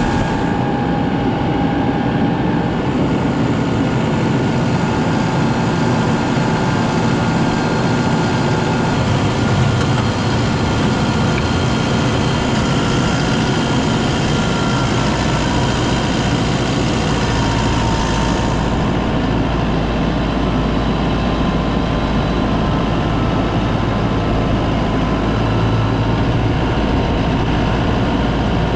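Heavy diesel tractor engine running steadily, the sound of a tractor working the silage pile. About eighteen seconds in, the highest, hissy part of the sound drops away.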